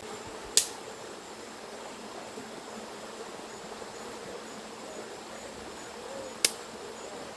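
Insects chirping steadily in the background, a thin high pulsing tone, with two sharp clicks, one about half a second in and one near the end.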